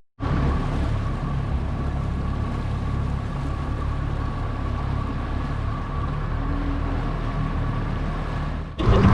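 Boat's outboard motor running at a steady speed, with a faint steady whine over its low drone. It cuts off suddenly near the end.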